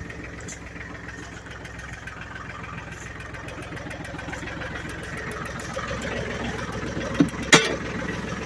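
Ford 1720 compact tractor's three-cylinder diesel engine idling steadily, with a single sharp knock a little before the end.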